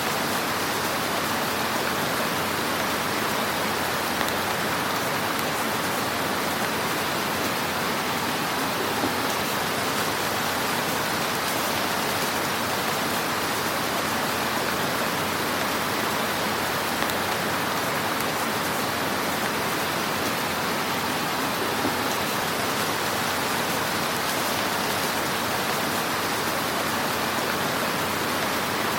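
Fire crackling in a fireplace over a steady, even hiss, with a few slightly louder pops.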